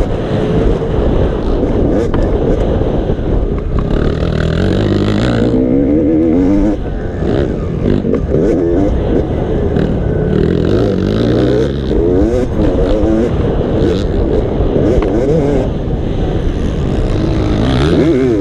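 Motocross dirt bike engine revving hard, its pitch rising and falling repeatedly as the rider works the throttle around the track.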